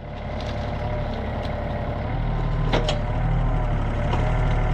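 An engine idling steadily, a low hum that grows louder over the first couple of seconds, with a single sharp knock about three seconds in.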